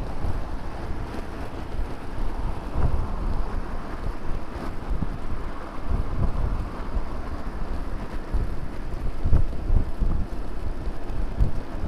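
Wind buffeting the microphone of a camera mounted on a moving bicycle, a low rumble that rises and falls in gusts, over road noise.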